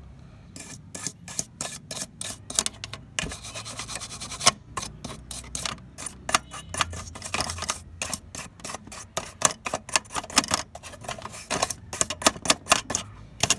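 Hand work on lamp parts: quick, irregular clicks and taps, several a second, with a stretch of rubbing or scraping about three seconds in.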